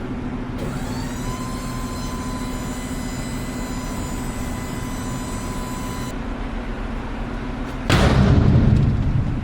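Truck engine running steadily, with a high whine that rises and holds for about five seconds before cutting off. About eight seconds in comes a loud rush of noise lasting over a second.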